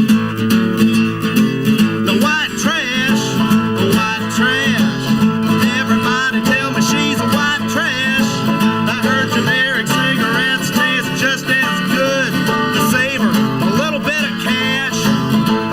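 Acoustic guitar music in a country style, strummed and plucked steadily; a higher melody line with sliding notes joins about two seconds in.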